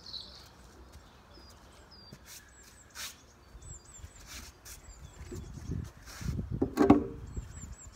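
Small birds chirping in short repeated high notes, with a few light knocks and a louder knock near the end.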